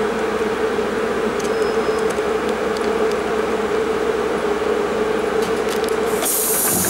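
Steady mechanical hum and rumble of a train standing at a station platform, heard from inside the carriage. About six seconds in it changes abruptly to a brighter hiss.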